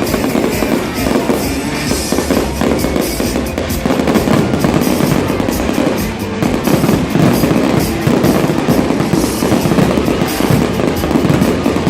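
Fireworks going off in quick succession, many overlapping bangs and pops, over music played through loudspeakers.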